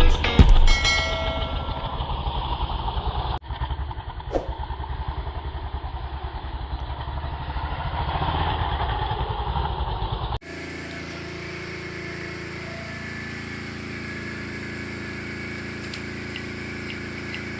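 Motorcycle engine idling with a steady low pulse. Abrupt cuts come about three seconds in and again just past the middle, after which the running is a steadier hum.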